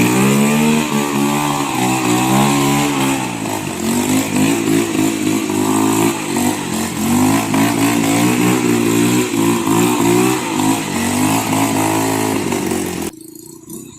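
Homemade off-road motorbike's engine revving up and down as it is ridden, its pitch rising about a second in and then rising and falling again and again. It cuts off suddenly near the end.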